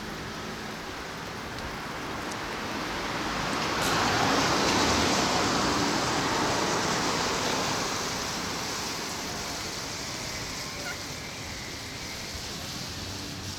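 Strong wind blowing in gusts, a rushing noise that swells a few seconds in, holds at its loudest for a few seconds, then eases back to a steadier rush.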